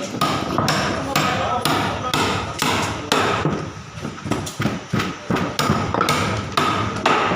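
Swiftlet calls: a rapid, even series of sharp chirps, about two a second.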